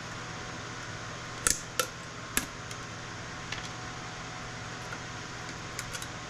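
Steady fan hum, with three sharp clicks about a second and a half in, then a few lighter ticks near the end, from hand work stripping steel and components off scrap circuit boards.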